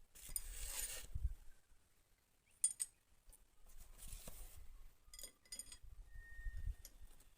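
Hand tools and metal engine parts being handled: light metallic clinks and rattles, with a sharp ringing clink near the middle and two quick clinks a little later.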